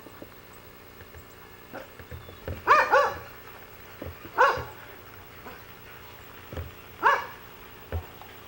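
A dog barking: a quick double bark a little under 3 seconds in, then single barks about 4.5 and 7 seconds in, with a few dull thumps in between.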